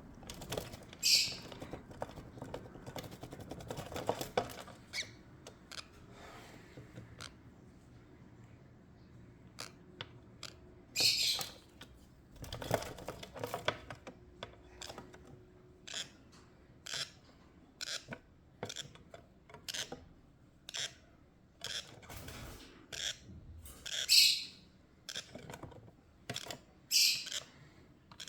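A baby parrot gives four short, loud, high-pitched squawks, with many small tapping and scratching clicks in between as it moves about in a box.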